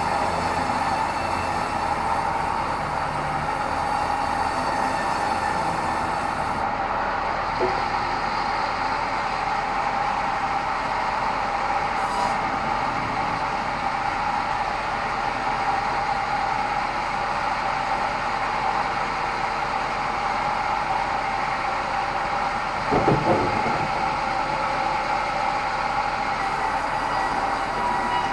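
Sawmill band saw running steadily, with a constant whine over the machine noise. There is a short knock about 23 seconds in.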